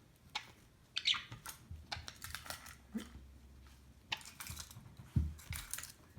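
Budgerigar pecking and scratching, giving irregular small clicks and rustles.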